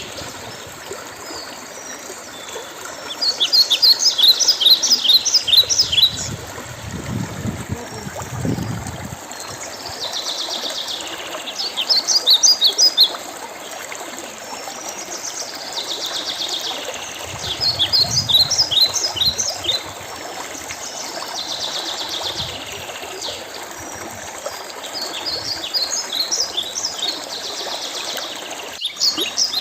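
A songbird singing in repeated bouts of rapid high chirps, each a few seconds long, returning every several seconds over a steady background of trickling water.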